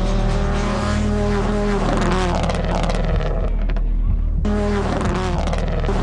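Subaru WRX STI rally car engine at full throttle, accelerating hard toward a ramp jump. About three seconds in the sharper high part of the sound drops away for a second and a half, then returns.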